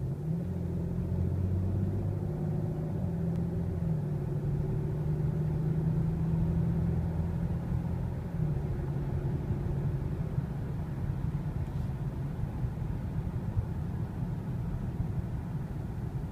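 BMW X5 40d's straight-six diesel heard from the cabin, pulling steadily in Eco Pro mode as the SUV gathers speed. A little past halfway its note drops away as the sailing function lets the engine fall to idle while the car coasts, leaving mostly a steady rumble of tyre and road noise.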